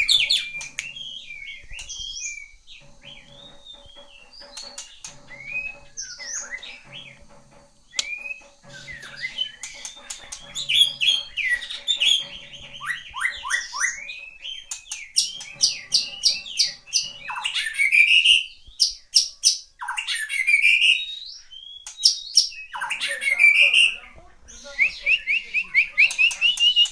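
A songbird singing a varied song of chirps, swooping whistles and rapid trills, with busier stretches in the second half.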